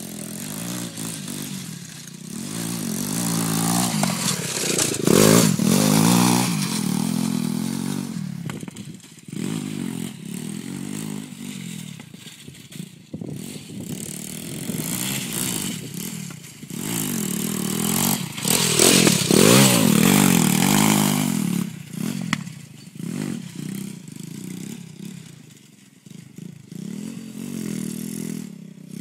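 Lifan 125 pit bike's single-cylinder four-stroke engine revving up and down while it is ridden through ruts, with two long high-revving pulls about five and nineteen seconds in.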